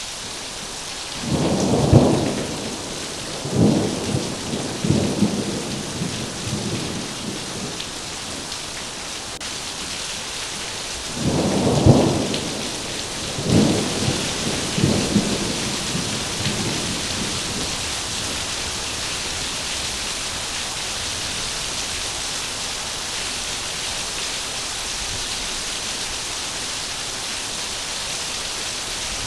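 Heavy rain falling steadily with a dense hiss, and two rolls of thunder about ten seconds apart, one starting a second in and the other about eleven seconds in. Each roll opens with a loud clap and rumbles on in three or four fading surges over about five seconds, then the rain goes on alone.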